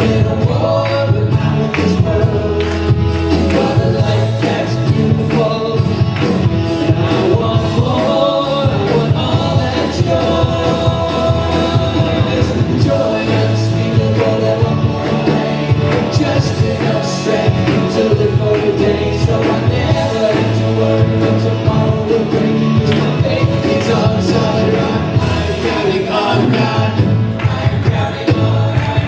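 A live worship band plays a contemporary Christian song with a steady beat while voices sing along.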